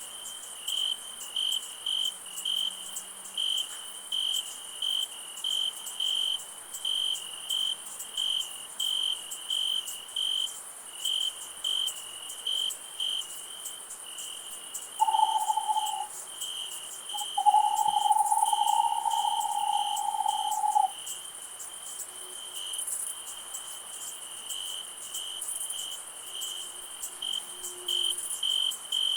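Night chorus of crickets chirping in an even rhythm, about one and a half chirps a second, over a steady high insect hiss. Around the middle a steady mid-pitched call sounds briefly, then again for about three seconds.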